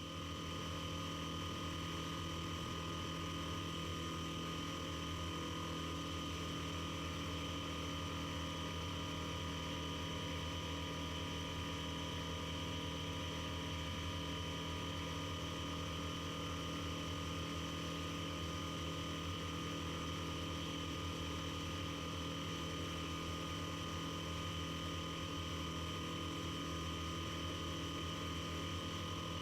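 Piper Super Cub floatplane's engine and propeller droning steadily in flight, a constant hum made of several steady tones that does not change pitch.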